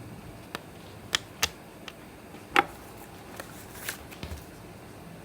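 Scattered small clicks and taps from handling Apple Watch bands, with one sharper click about two and a half seconds in.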